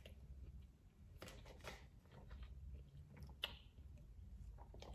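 Faint chewing of a mouthful of taco, with a few soft crunches scattered through.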